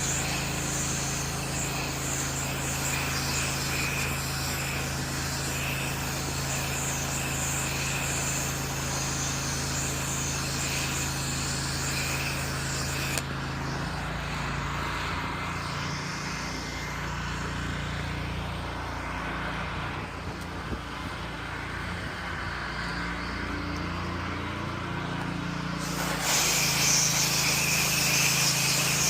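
Pressure washer engine running steadily, with the hiss of the spray wand putting soap on the siding by downstreaming. The spray stops a little under halfway through, leaving the engine running alone with a changed note, and starts again near the end.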